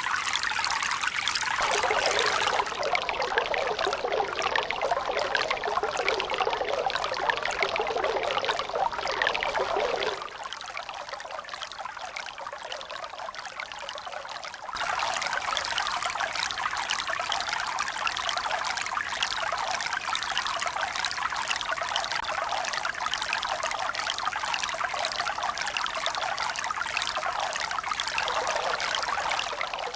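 Steady running water, trickling and pouring, with no swell of breaking waves. It drops to a quieter, thinner trickle about ten seconds in and comes back fuller about five seconds later.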